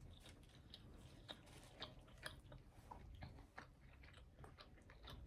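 Faint chewing of a person eating, with irregular soft mouth clicks.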